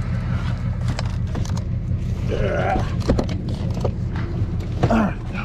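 Tow truck's engine idling steadily, with scattered sharp clicks and knocks from metal parts being handled.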